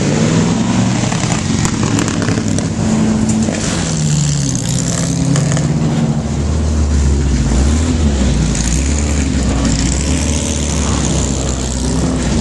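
Vintage racing car engines running in the paddock, revving up and down. A deeper, steady engine rumble sets in about six seconds in.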